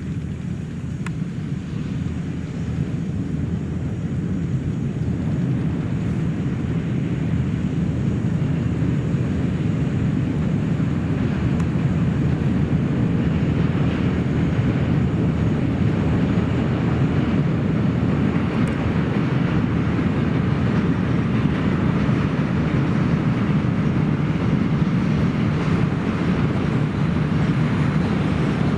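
Passenger train running past: a continuous low rumble that builds over the first several seconds, then holds steady.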